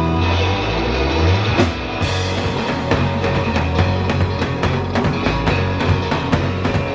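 Surf-rock band playing live on electric guitar and drum kit. Held low notes ring at first, and about two seconds in the drums come in with a steady driving beat.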